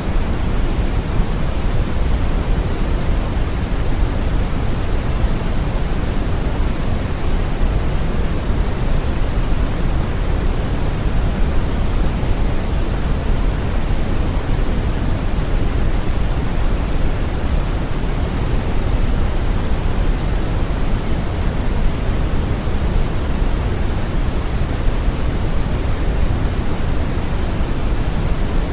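Steady brown noise: a deep, even rushing hiss, strongest in the bass, without change or break.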